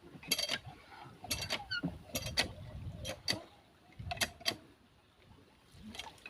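Irregular metallic clanks and creaks, roughly one a second, from metal parts being moved or worked by hand.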